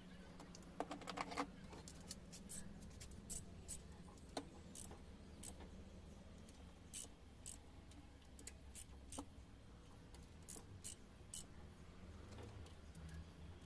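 Light metallic clicks and clinks of tools and parts being handled, with a quick run of clicks about a second in and then single clicks every second or so, over a faint steady low hum.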